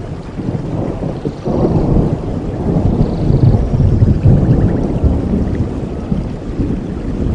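Steady rainforest rain with a low rolling rumble of thunder that swells about a second and a half in and stays heavy through the middle. A few faint high chirps sound over it.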